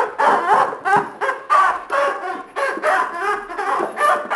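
Squeaky rubber chicken toy squeaking over and over as a dog bites it, short pitch-bending squeals about two a second.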